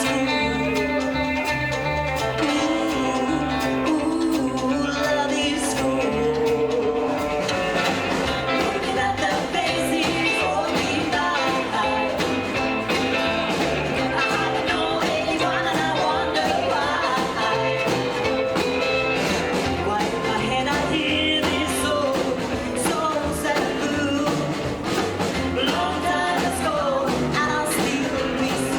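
Live rockabilly band playing a song with guitar, a steady walking bass line and a singer.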